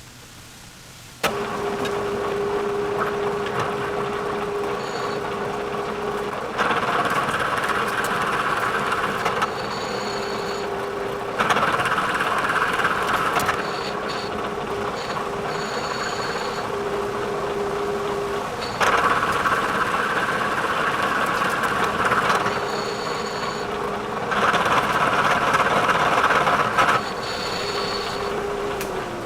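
Bridgeport milling machine spindle switched on about a second in and running with a steady hum, with four louder stretches of a few seconds each as the cutter passes across the metal part, milling it flat. Near the end the hum starts to fall in pitch as the spindle is switched off and winds down.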